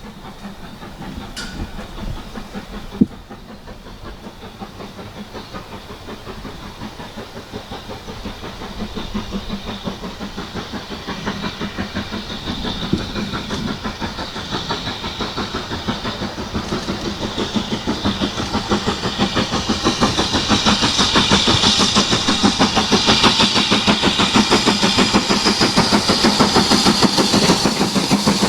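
Steam locomotive approaching and working under steam, its exhaust beats in a fast, even rhythm growing steadily louder, with a sharp click about three seconds in.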